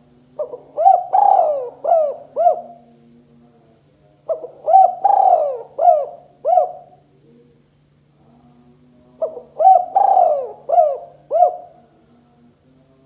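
Spotted dove (tekukur) singing its 'kuk 2' cooing song: three phrases about four seconds apart, each a quick run of about five coos with one longer, drawn-out coo near the start.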